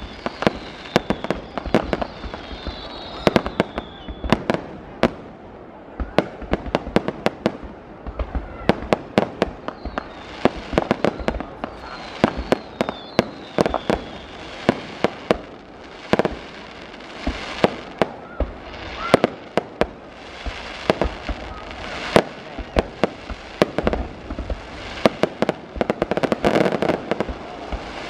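Aerial fireworks display: a dense, irregular run of sharp bangs and pops. Thicker crackling swells come about two-thirds of the way through and near the end.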